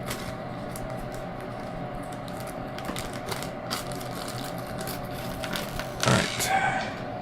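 Scattered light clicks of small bolts and hardware being handled, over a steady hum. About six seconds in, a louder brief scrape.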